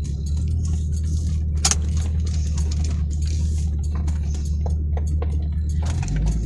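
Vehicle engine running at idle, heard from inside the cab as a steady low hum, with scattered small clicks and one sharper tick about a second and a half in. About six seconds in, the engine note shifts lower.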